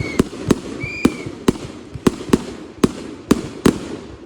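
Retail fireworks going off in a rapid, irregular run of sharp bangs, about ten in four seconds, with two brief high whistles near the start.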